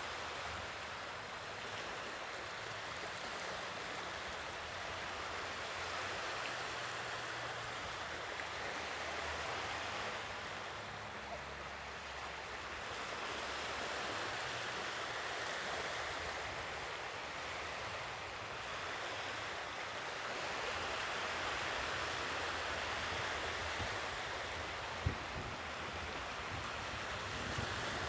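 Sea waves washing ashore, a steady rush that swells and eases slowly. A short low knock comes near the end, along with a few low flutters.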